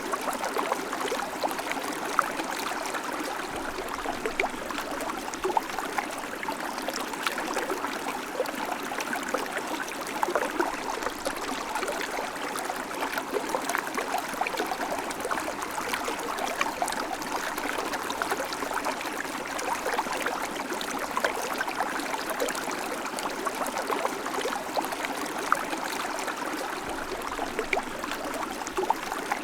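River water flowing steadily over stones, an even rushing with many small splashes and gurgles.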